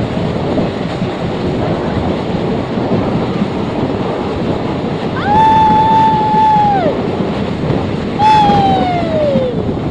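Train running through a tunnel: a loud, steady rumble and rush of air. Over it come two long hoots, one held level about five seconds in and one sliding down in pitch about eight seconds in.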